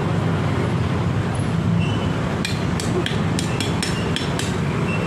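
Washing machine motor running with a steady low hum. A quick series of sharp clicks or taps comes about halfway through.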